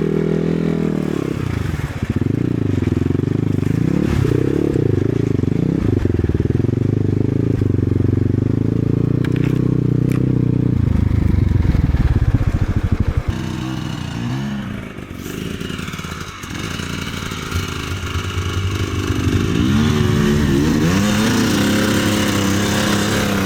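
Enduro motorcycle engine running and revving, its pitch rising and falling again and again. It eases off about fifteen seconds in, then picks up again.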